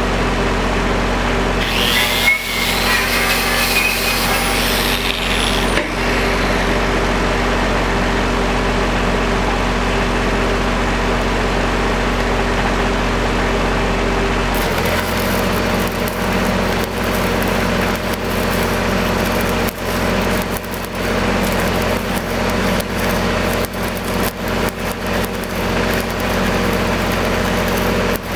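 Engine running steadily, its note shifting about halfway through, with a brief high whine near the start and irregular crackling in the second half.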